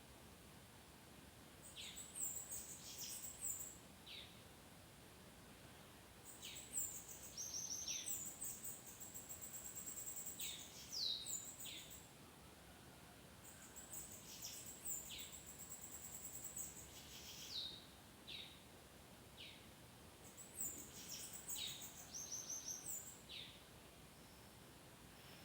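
Bananaquit singing: about four bouts of high, thin, buzzy song made of quick down-sweeping notes and fast trills, with short pauses between them.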